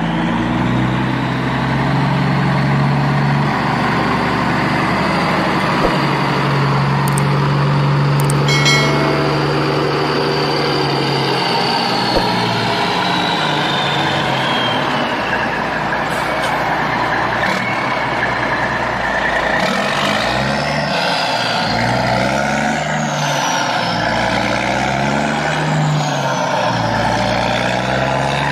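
JCB backhoe loader's engine running steadily, then revving up and down repeatedly in the second half as the machine works.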